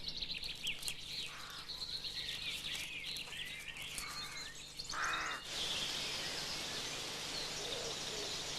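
Woodland birdsong: scattered chirps and twitters, with one harsh, crow-like caw about five seconds in, after which a denser chorus of high birdsong takes over.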